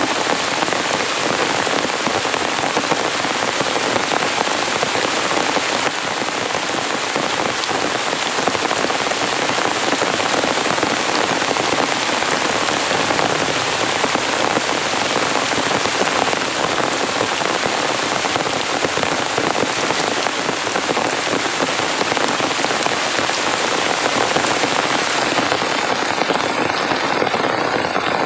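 Heavy rain falling in a steady, loud, even downpour.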